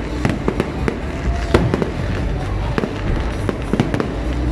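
Aerial fireworks display: a dense, irregular stream of sharp bangs and crackles, several a second, over a steady low rumble.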